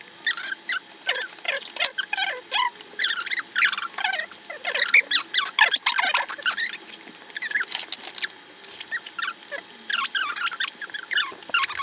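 A small animal making many quick, high squeaks and chirps in rapid succession.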